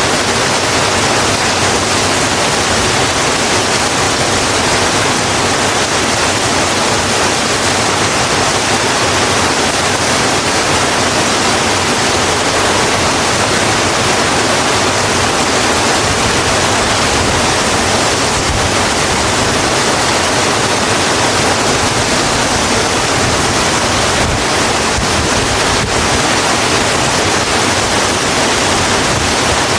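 Steady heavy rain, an even wash of hiss that holds constant throughout.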